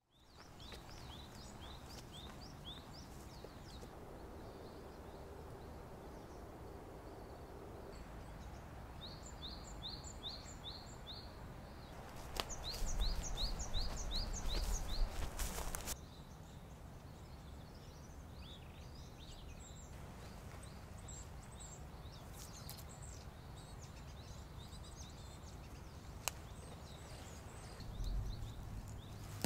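Woodland ambience: small birds singing runs of short, high, rising notes at about three a second, over a steady low rumble of wind. Around the middle a louder burst of noise lasts about four seconds.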